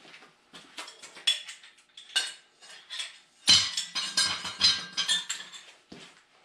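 Metal parts and tools clinking as they are handled, with scattered light knocks, then a louder run of rattling metallic clatter with ringing about three and a half seconds in.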